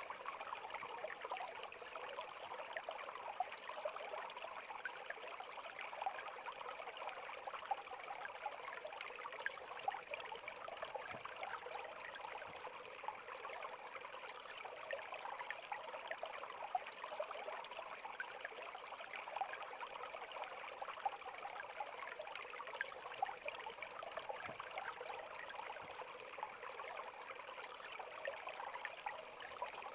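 River water flowing and splashing steadily, a continuous rushing with many small splashes and trickles.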